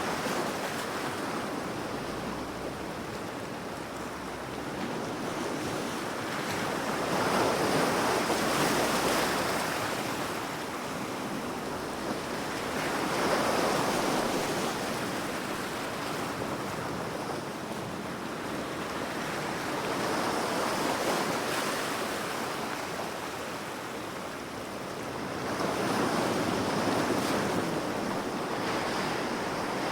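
Ocean surf: waves washing in, the rush of water swelling and falling away about every six seconds.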